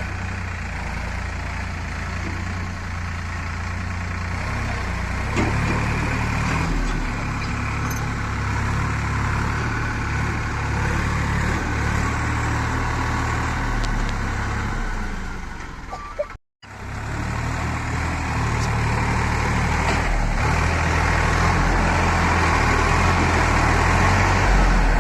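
Sonalika Sikander tractor's diesel engine running steadily in mud, getting louder in the last few seconds. The sound cuts out completely for a moment about two-thirds of the way through.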